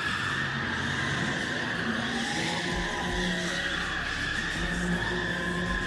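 Car drifting: tyres squealing steadily over the engine running, with a deeper low rumble from about halfway through.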